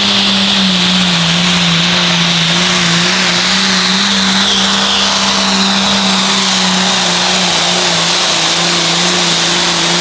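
Pulling tractor's engine at full throttle during a pull, running loud at high, nearly steady revs with slight dips in pitch.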